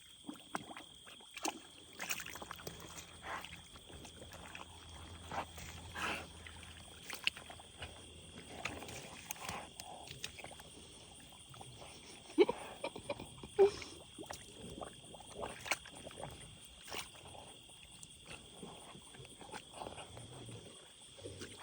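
Farm animals eating snacks: scattered crunching and clicking, with a couple of short low calls about twelve and thirteen seconds in. A steady faint high whine runs underneath.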